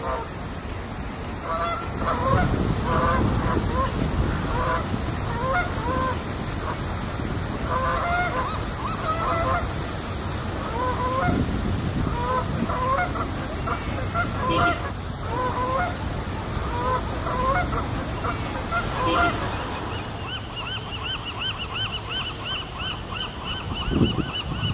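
Large birds honking in short runs of two to four calls, repeated again and again. About 20 seconds in a high, fast trill from a smaller bird starts up and carries on steadily.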